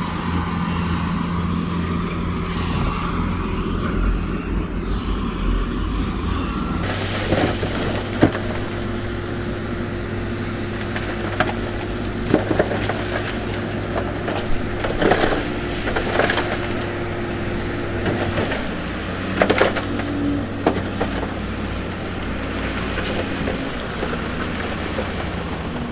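Diesel engines of heavy construction machinery running steadily. About seven seconds in the engine note changes, and scattered sharp knocks and clatters of rock follow.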